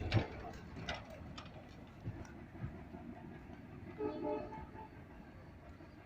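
Departing passenger train's wheels clacking over rail joints, with a brief horn sounding about four seconds in.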